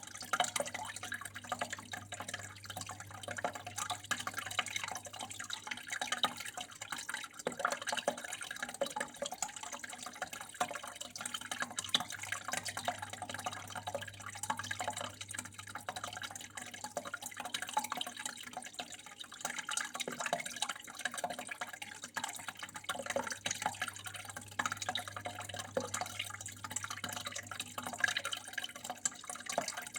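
Water flowing and trickling, a continuous irregular splashing and dripping patter, with a low steady hum underneath.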